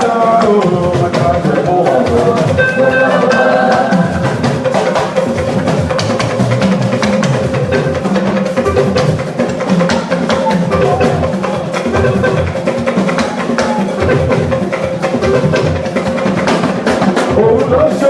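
Live church band music led by a drum kit playing a busy, steady beat, with a long note held high above it through most of the passage.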